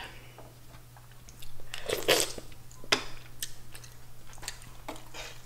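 Close-miked chewing of mussels, with soft clicks of mussel shells being handled in the broth and a sharper click about three seconds in.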